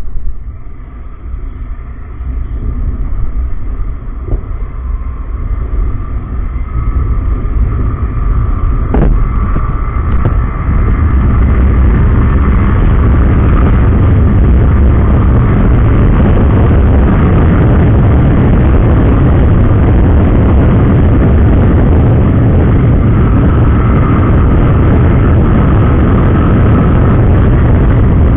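Wind rushing and buffeting over the microphone on a moving motorcycle, with road and engine noise underneath. It builds up and is steady and very loud from about twelve seconds in, with a short knock about nine seconds in.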